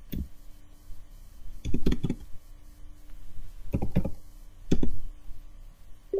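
Clicks and taps on a computer keyboard and mouse, coming in four short clusters.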